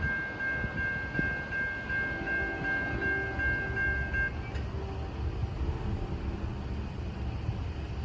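Grade-crossing warning bell ringing in a steady high pulse over the low rumble of a passing Amtrak passenger train. The bell stops about four seconds in, while the train rumble goes on.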